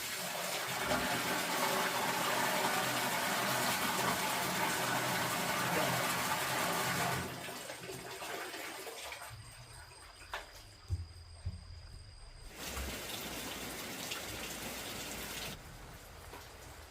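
Running water, loud and steady for about seven seconds, then dropping away, with a few soft knocks and a second, quieter stretch of rushing water later.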